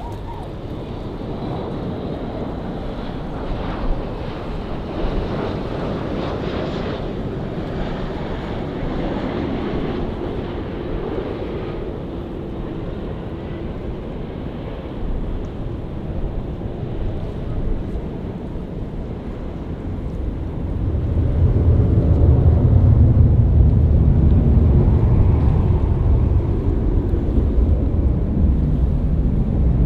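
Jet airliner engines running close by, a steady rush of noise that swells into a loud, deep rumble about two-thirds of the way through and holds there.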